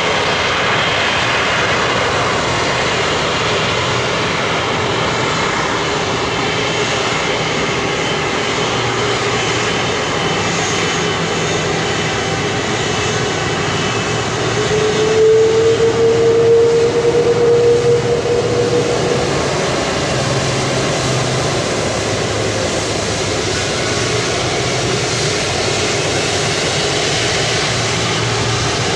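Airbus A330-243's Rolls-Royce Trent 700 turbofan engines running with a steady jet noise and an underlying hum. About halfway through, the hum grows louder and rises slightly in pitch for a few seconds, then settles back.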